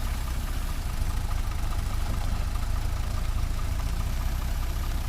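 Heavy diesel engine running steadily at a low, even idle, a continuous low rumble with no rise or fall in speed.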